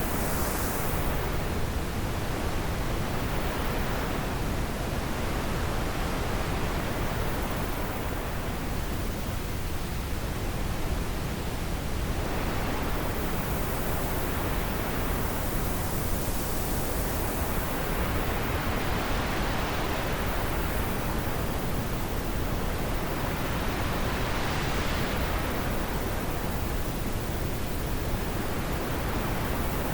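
Wind blowing as a steady rush, with gusts that swell and fade every several seconds.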